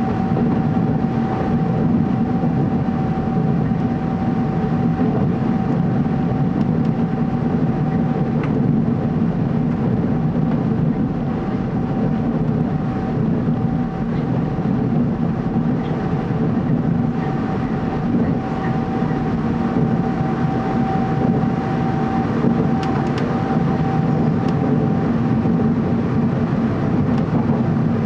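Cabin running noise of a Taiwan Railways TEMU2000 Puyuma electric train at speed, heard from inside a passenger car: a steady rumble with a constant whine over it.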